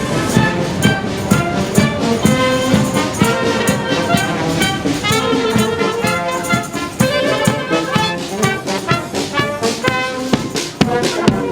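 Brass-band music, trumpets and trombones playing a lively tune over a steady beat.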